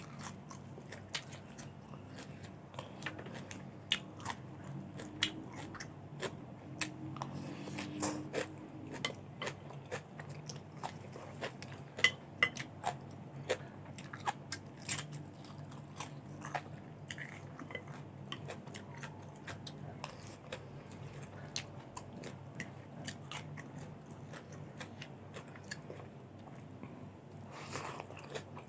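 Close-miked chewing of crunchy raw vegetables and rice, with a steady run of crisp crunches and bites.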